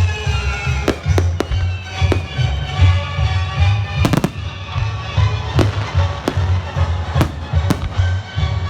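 Fireworks bursting in sharp bangs, about one or two a second with a quick cluster about four seconds in, over loud music with heavy bass.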